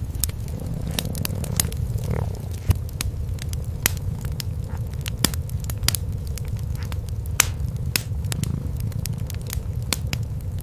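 Cat purring as a steady low rumble, with a wood fire crackling in sharp pops scattered throughout.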